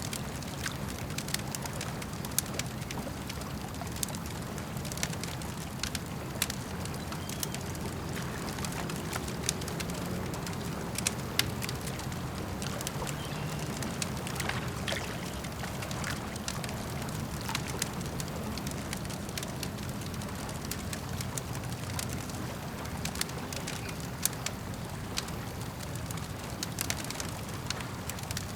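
Campfire crackling, with irregular sharp pops and snaps over a steady low wash of lake water lapping.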